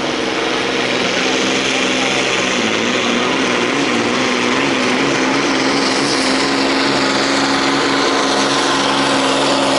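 DAF pulling truck's diesel engine at full throttle, hauling the weight sled in a pull: a loud, steady drone whose pitch wavers and creeps slightly upward.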